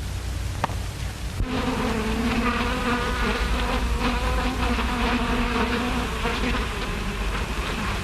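Bees buzzing: a steady, slightly wavering pitched buzz that starts about a second and a half in and keeps going, heard through the hiss and hum of an early sound-film soundtrack.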